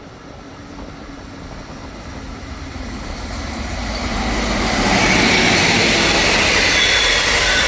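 Long Island Rail Road diesel train, a DM30AC dual-mode locomotive hauling bilevel coaches, approaching and passing at speed. It grows steadily louder for about five seconds, then holds loud as it goes by, with a high steady whine coming in at the loudest point.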